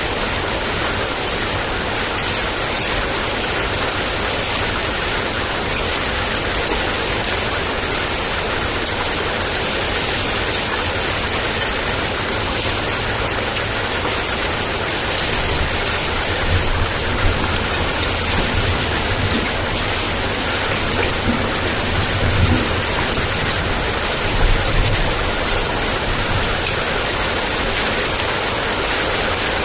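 Heavy rain pouring steadily, with low rumbles of thunder swelling in the second half.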